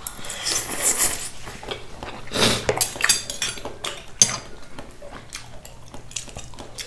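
Eating sounds with utensils clicking against a bowl: a few short noisy bursts and sharp clicks.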